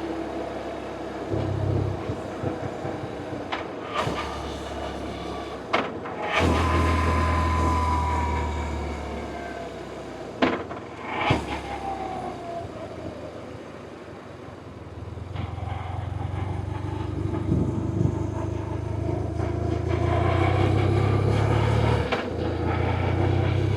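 BMW R1100RT's boxer-twin engine running while riding: it pulls harder and louder about six seconds in, eases off toward the middle, then builds again for the second half. A few short knocks and a falling whine come in between.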